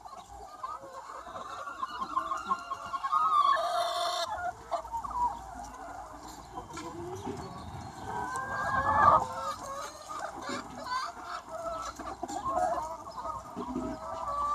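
A large free-range flock of chickens clucking and calling continuously, many birds overlapping. Louder single calls stand out about 3 to 4 seconds in and again around 9 seconds in.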